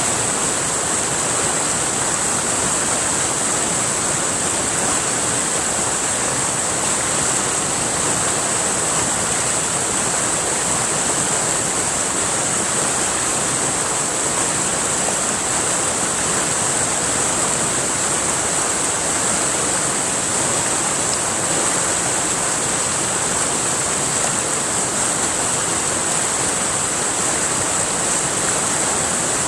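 River water rushing steadily, a constant, even noise with a steady high-pitched hiss on top.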